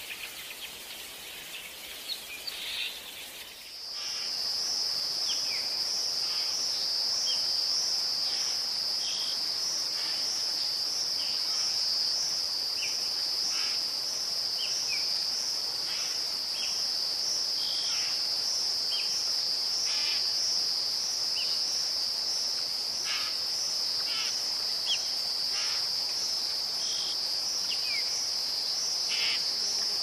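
Bird calls for the first few seconds. Then, about four seconds in, a singing insect starts a steady, high, pulsing trill like a cricket's, which holds unbroken, with short bird chirps scattered over it.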